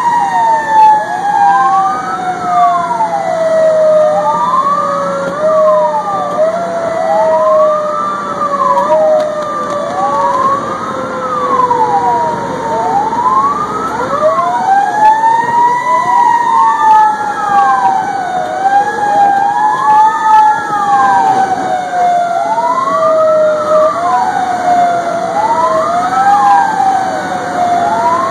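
Fire engine responding with its sirens on: an electronic wail rising and falling about every two seconds, over a second, slower siren whose pitch slowly falls, winds back up about halfway through, then slowly falls again.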